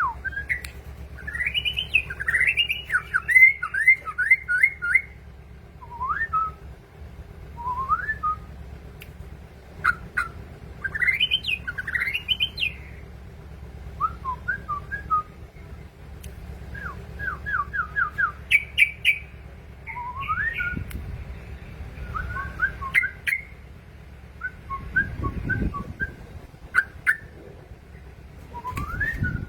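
Yellow-vented bulbul (trucukan) singing: short bursts of quick, bubbling whistled notes, repeated every couple of seconds.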